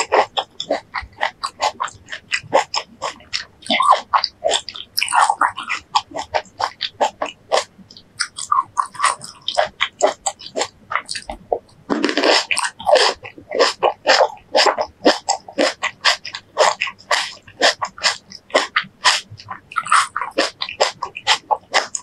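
Close-miked chewing of juicy fresh fruit: a fast, irregular run of wet, crisp crunches and mouth clicks.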